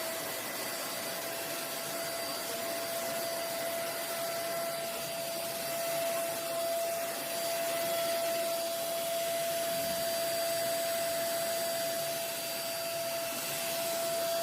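Deerma vacuum cleaner running at full speed: a steady high motor whine over a rush of air through the machine.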